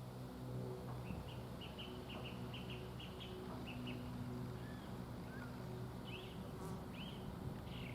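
A small bird chirping in a quick run of short high notes, then a few single chirps near the end, over a steady low hum.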